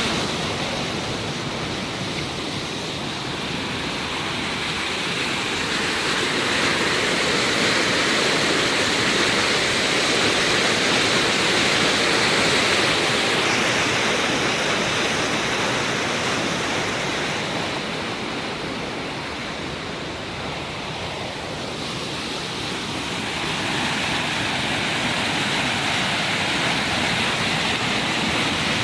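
Floodwater rushing like rapids, a steady noisy rush that slowly swells and eases.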